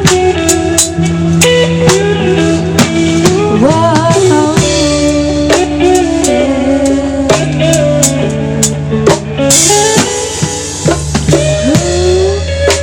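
Live band playing an instrumental passage: electric guitar bending and sliding notes over a bass line and drum kit with a steady beat.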